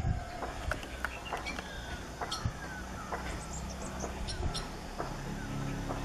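Birds calling in a tree: many short downward-sliding chirps and sharp clicks overlapping. A low steady hum comes in about five seconds in.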